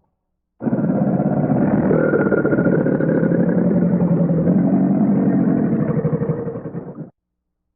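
A creature-call sound effect for Livyatan, a prehistoric sperm-whale relative: one long, low, pulsing growl-like call lasting about six seconds, with a higher held tone running over it, that starts and stops abruptly.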